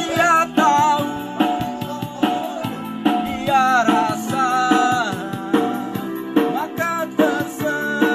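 A voice singing with wavering, ornamented pitch over a band-style backing of drums and guitar.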